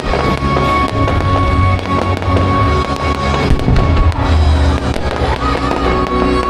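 Fireworks bursting and crackling, many sharp bangs in quick succession, over loud music with held notes and a bass line.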